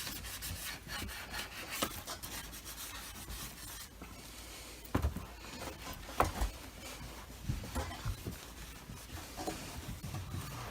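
A sponge damp with rubbing alcohol scrubbing paint scuffs off a Dyson DC25 vacuum's plastic housing. Quick back-and-forth rubbing strokes for about four seconds, then slower, quieter rubbing with a few light knocks.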